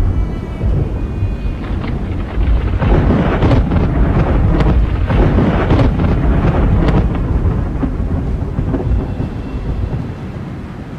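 Thunder from a nearby lightning strike: a heavy low rumble with a burst of sharp crackling cracks a few seconds in, rolling on and fading after about eight seconds, with rain in the background.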